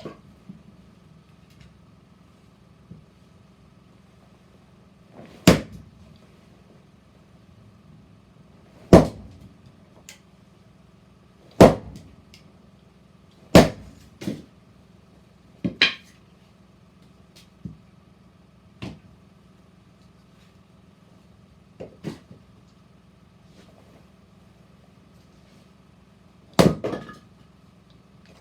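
Firewood being split: six heavy, sharp strikes on wood a few seconds apart, with several lighter knocks between them and a long pause before the last blow near the end.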